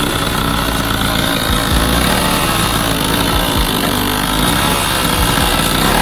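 Cobra mini dirt bike's small petrol engine running loudly, just brought to life with a shot of starting fluid.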